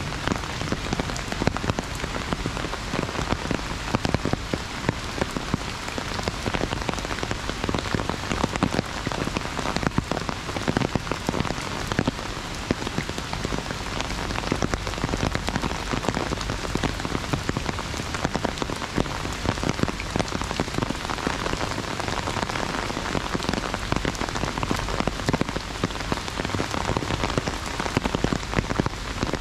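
Heavy rain falling on an umbrella held overhead: a dense, steady patter of countless individual drop hits.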